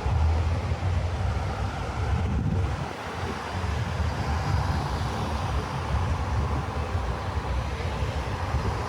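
Steady low rumble of city street traffic, dipping briefly about three seconds in.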